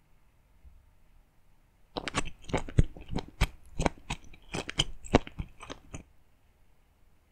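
Close-miked chewing of a sauce-dipped baby octopus stuffed with a quail egg: a dense run of sharp crunching bites starts about two seconds in and stops about a second before the end.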